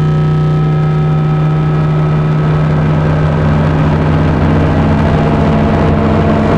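Handmade Dirty Drone noise synth with three interacting oscillators: a steady buzzing drone breaks up about half a second in into a rough, grainy, engine-like noise. A new steady tone comes in near the end.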